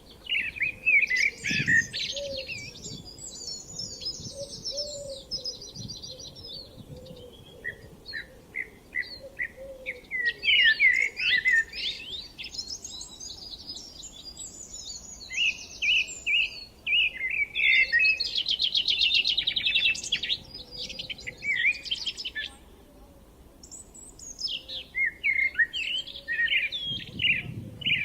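Several songbirds singing at once in a spring chorus: overlapping chirps and warbled phrases, with fast rattling trills around five seconds in and again around nineteen seconds in.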